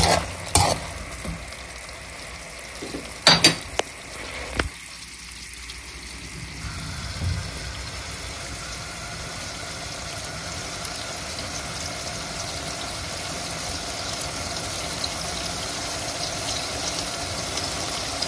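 Hazelnuts, dried chili peppers and garlic frying in olive oil in a pan, sizzling steadily and growing a little louder. In the first five seconds there are a few sharp clicks of a spoon against the pan.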